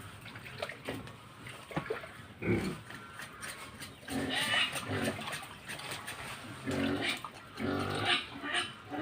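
Livestock calling several times, with pitched cries about four, seven and eight seconds in.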